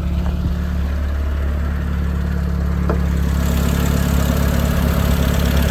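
Audi TT Mk1's engine idling steadily, getting a little louder and brighter about three seconds in.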